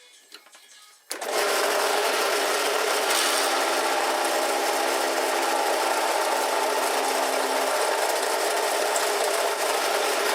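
A power tool starts abruptly about a second in and runs at a steady, even speed.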